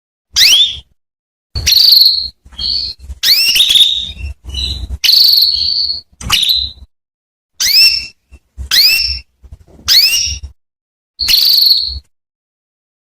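Female canary calling: a string of short, high call notes, most sweeping quickly upward and a few held as a flat whistle, repeated every half second to a second with brief gaps. These are a hen's calls to a male canary.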